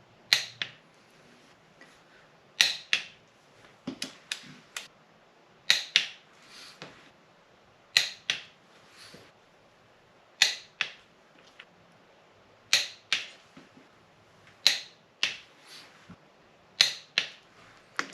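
Click-type torque wrench breaking over as each ARP cylinder-head bolt on a 6.0 LS engine reaches 50 ft-lb: a sharp click, often doubled, about every two seconds, eight times in all.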